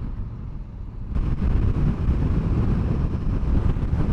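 Riding a motorcycle, heard from the rider's camera: engine rumble under rushing wind and road noise that jumps up sharply about a second in and stays loud.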